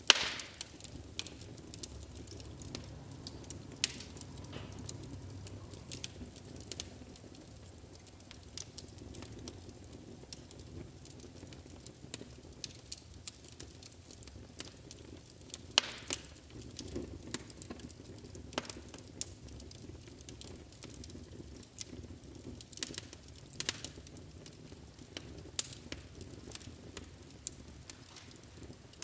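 Wood fire burning in a fireplace: a low steady rumble of flames with frequent sharp crackles and pops, the loudest pop right at the start.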